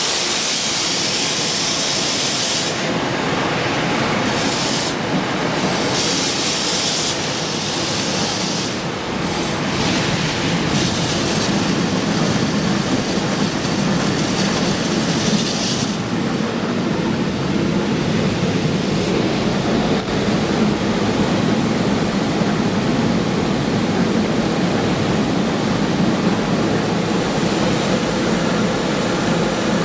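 Automatic truck wash heard from inside the truck's cab: a loud spray hissing against the cab in on-and-off stretches, giving way about halfway through to a steadier low rumble of the wash machinery.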